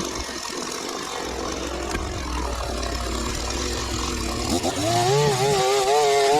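Small petrol engine of lawn-care gear running steadily, then revving up about four and a half seconds in, its pitch wavering up and down under load.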